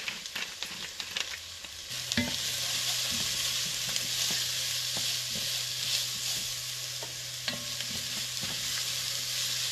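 Pot barley and chopped onion toasting in olive oil in an enamelled pot, sizzling steadily while a wooden spoon stirs and knocks against the pot. The sizzle grows louder about two seconds in.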